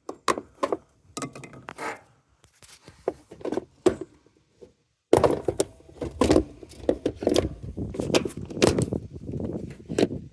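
Washing-machine parts being handled during a teardown: irregular clinks, knocks and scrapes of metal and plastic. The clatter breaks off briefly about halfway through, then comes back busier.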